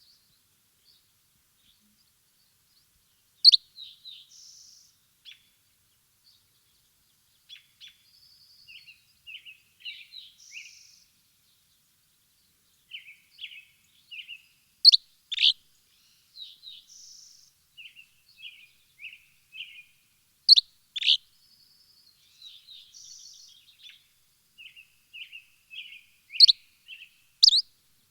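Birds chirping, beginning about three seconds in. Sharp, loud single chirps come every few seconds, with quieter twittering and short trills in between.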